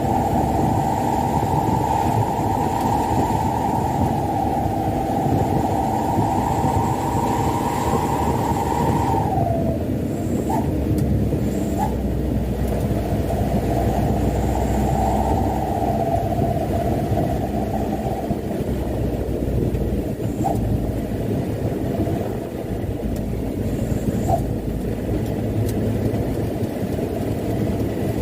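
Mitsubishi Canter dump truck driving: steady engine and road rumble with a whine that rises slightly and then drops away about nine seconds in, returning more faintly a few seconds later.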